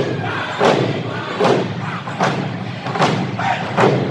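Heavy rhythmic thuds, one about every three-quarters of a second, over a steady low hum, like a pounding beat.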